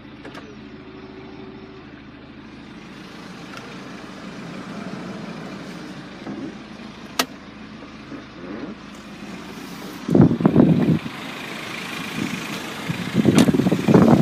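BMW X3 20d's turbo diesel engine running, with a short electric motor whir from the power mirrors about half a second in. Two louder, rougher bursts of sound come near the end.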